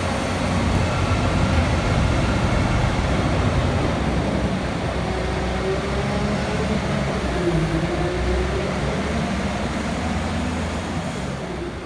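Heavy tandem-axle salt truck driving, a steady engine rumble mixed with road noise, the engine note wavering a little around the middle and easing slightly near the end.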